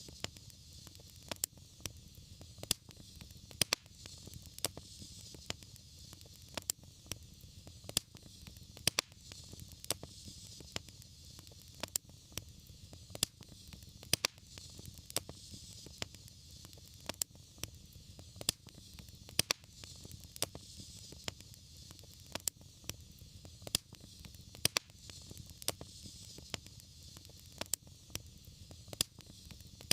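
Wood fire burning in a fireplace: irregular sharp crackles and pops, a few each second, over a steady hiss and low rumble of the flames.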